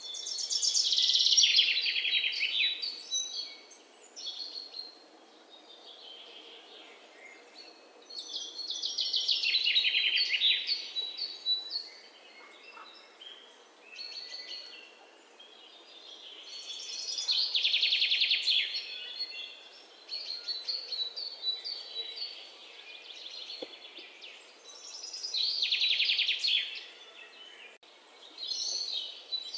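Songbirds singing: a loud song of rapid notes sliding down in pitch comes back about every eight seconds, four times, each lasting two to three seconds, with softer chirps in between.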